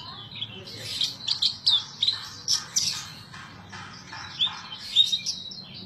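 Horsfield's bush lark (branjangan) singing continuously: a fast, varied run of short chirps and quick whistled sweeps, with its loudest notes about 1, 3 and 5 seconds in.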